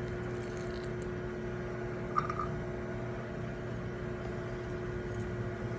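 Steady mechanical hum with a constant low tone, like a running fan or appliance motor, and a brief faint higher blip about two seconds in.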